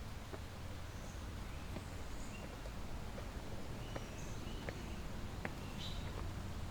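Birds chirping and calling in an aviary, short high chirps and whistles scattered through, over a steady low hum, with a few sharp clicks around the middle.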